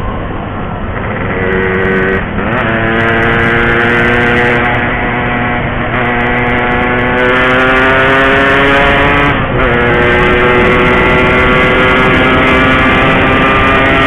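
Yamaha RX-King's 135cc two-stroke single-cylinder engine pulling under throttle. The revs jump about two seconds in and then climb slowly. They dip briefly about nine and a half seconds in at a gear change and climb again.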